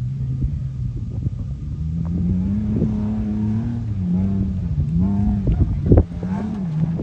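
Truck engine revving up and down, its pitch rising and falling several times, with a sharp knock about six seconds in.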